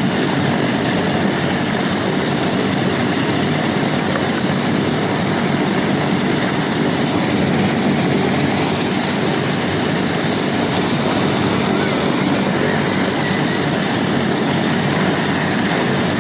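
Air-ambulance helicopter's turbine and rotor running steadily: a constant loud rush with a steady high whine over it.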